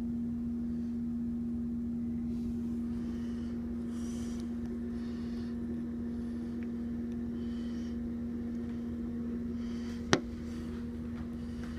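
A steady machine hum that holds one pitch, with a single sharp click about ten seconds in.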